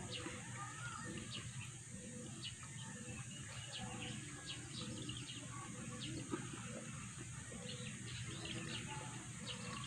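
Small birds chirping in short, scattered calls, over a steady high hiss.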